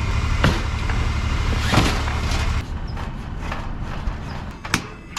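A vehicle engine idling with a low steady rumble, then shut off about two and a half seconds in, with a few sharp knocks and clicks.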